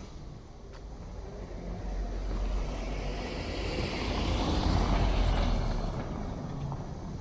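A road vehicle passing by: its noise swells to a peak about four to five seconds in, then fades away.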